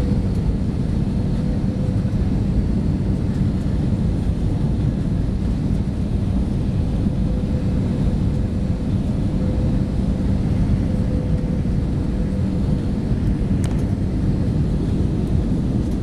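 Steady cabin noise of an Airbus A318-121 heard from a window seat: engines and airflow as an even roar with a faint steady hum over it. A faint click about fourteen seconds in.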